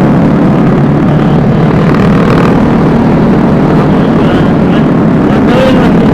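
Vespa S 125 scooter riding along at a steady pace: an even engine drone under a loud rush of wind and road noise, with no let-up.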